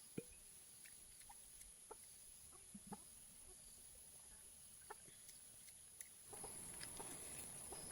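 Faint farmyard ambience: a few short, scattered chicken clucks over a steady high insect hum. A soft rustling noise rises about six seconds in.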